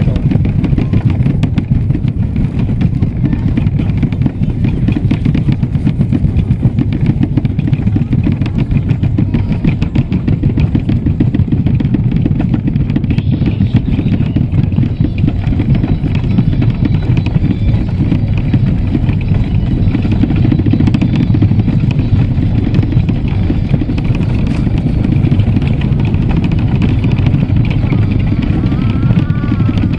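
Train running: a loud, steady low rumble that goes on without a break. Near the end a short wavering tone rises and falls over it.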